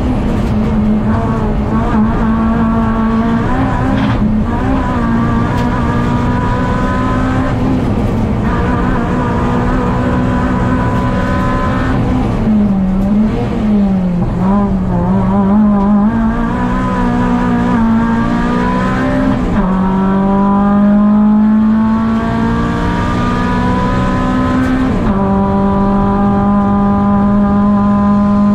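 Škoda Fabia 1.4 16V race car's four-cylinder engine, heard from inside the cabin, driven hard through the gears. The engine note climbs and drops sharply at each gear change, several times, with a lower, wavering stretch through a slow bend about halfway.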